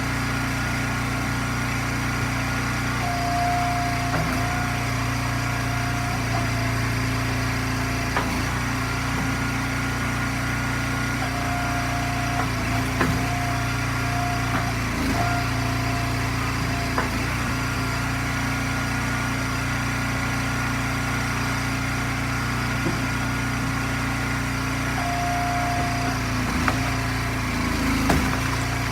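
Eastonmade firewood splitter's engine running steadily. A higher whine comes in for a few seconds at a time, three times, and there are scattered knocks and cracks.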